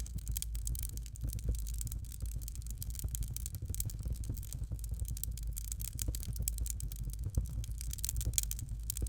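Fire crackling in a fireplace: a dense, continuous run of small pops and snaps over a low steady rumble of flame.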